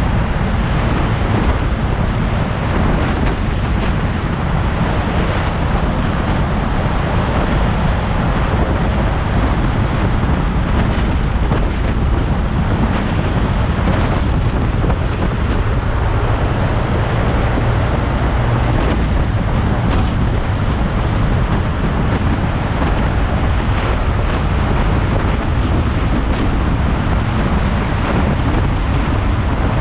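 Motorcycle on the move: the engine runs steadily under a low rumble of wind and road noise, with no sudden events.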